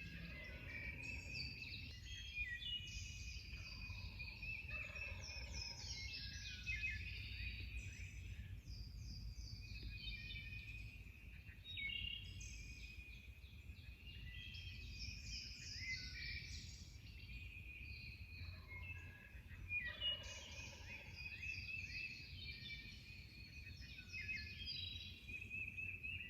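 Wild turkey gobblers gobbling a few times, still on the roost, over a dawn chorus of songbirds chirping and trilling.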